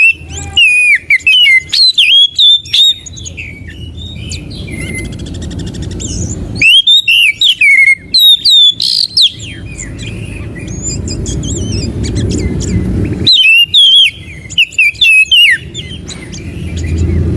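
Oriental magpie-robin (kacer) singing loud, rapid bouts of whistled, warbling phrases with quick rising and falling notes. It sings three bouts with short pauses between them. A steady low rumble runs underneath.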